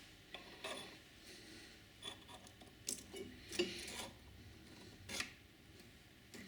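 Small metal parts being handled and fitted by hand: a series of short scrapes and light clinks, the loudest about three and a half seconds in and another a little after five seconds.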